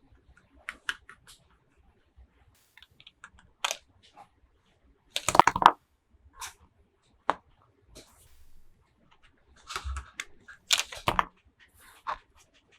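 Unboxing sounds: plastic toy packaging and small figures being handled, with scattered clicks, taps and crinkles. The loudest flurry of clatter comes about five seconds in, and another comes near the ten-second mark.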